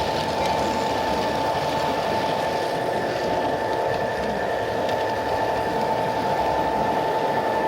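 G-scale garden model train running, with a steady whine over a rumbling hum.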